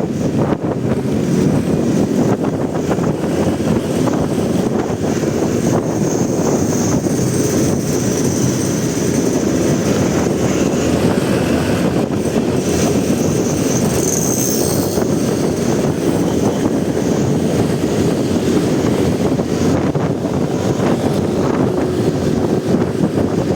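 Motorcycle ride through city traffic: steady wind rush on the helmet or body camera microphone, mixed with engine and surrounding traffic noise. Faint thin high squeals come through about a third of the way in and again near the middle.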